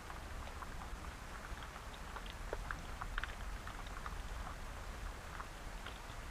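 Steady rain falling, with scattered ticks of individual drops hitting a surface over a steady low rumble.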